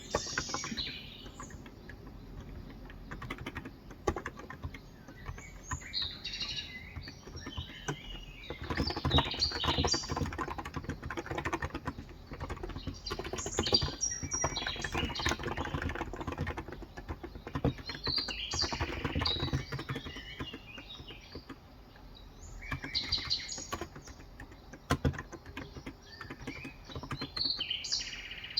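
Typing on a Cox Endeavour electro-capacitive keyboard with light 35 g switches, in bursts of rapid keystrokes with short pauses. Small birds chirp over and over in the background.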